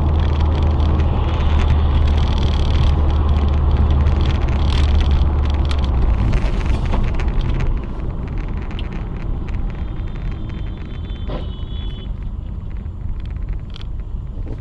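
Car driving on the road: steady engine and tyre rumble with a strong low drone that eases off about eight seconds in. A brief high tone sounds about ten seconds in.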